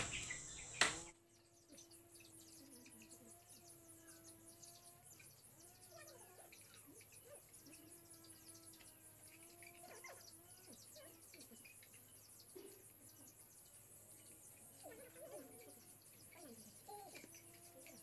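A short knock about a second in, then faint birds calling, with long held notes and shorter chirps, over a steady high insect drone.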